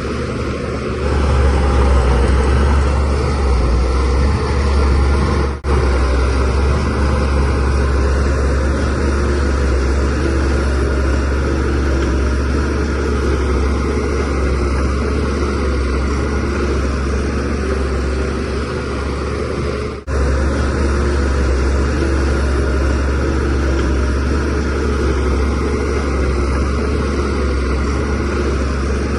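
DH17C3PRO bulldozer's diesel engine running steadily with a deep drone while working. It gets louder about a second in and cuts out for an instant twice.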